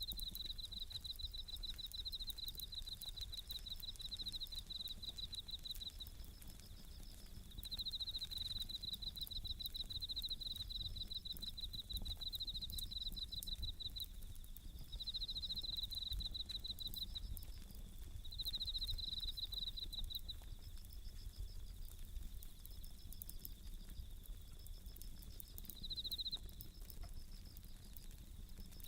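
Japanese bell crickets (suzumushi) singing in ringing, high trills, in bouts of a few seconds with short breaks. Beneath them, a wood campfire gives a soft scattered crackle and a low rumble.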